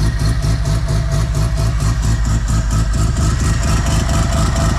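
Mazda RX-7 FD's semi-peripheral-port two-rotor rotary engine idling high and loud, with a fast, lumpy, super brappy exhaust pulse. It runs with no exhaust leak to be heard.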